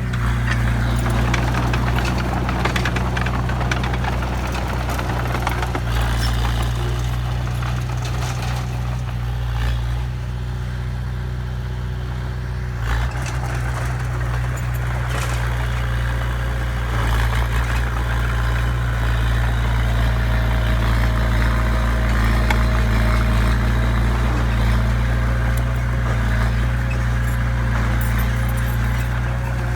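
Heavy diesel engine of a construction vehicle running steadily at low revs, a deep continuous drone with small shifts in level.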